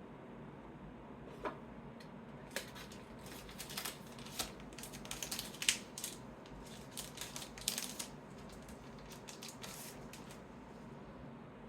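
Trading cards being handled and sorted by hand: irregular light clicks, taps and short rustles as cards are picked up, slid and set down, busiest in the middle and thinning out near the end.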